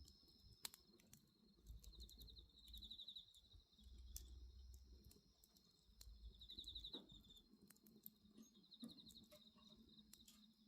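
Faint crackling and popping of a wood bonfire, with insects chirping in three short, rapid trills.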